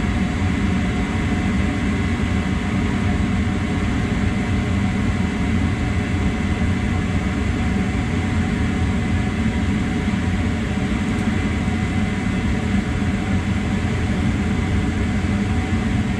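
Gas furnace running with its burners lit and the draft-inducer vent motor on: a steady mechanical hum and rush with no change, the circulating blower not yet started.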